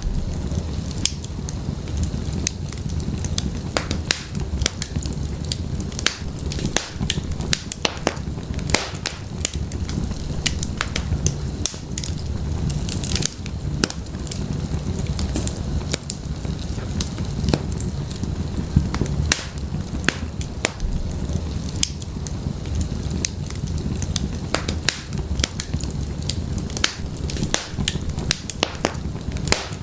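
Firewood burning in an open fireplace: a steady low rumble of flames with many sharp, irregular crackles and pops from the wood.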